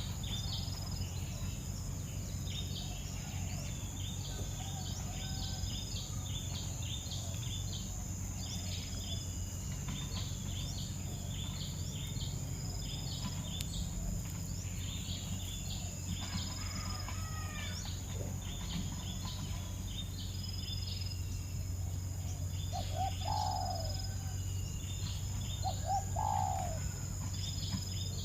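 Nestling birds chirping continuously in rapid, short, high peeps, over a steady high whine. Near the end come a few louder, lower calls.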